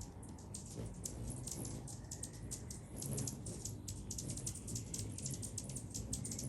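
Hummingbirds chipping: a fast, irregular string of short, high ticks from several birds at once.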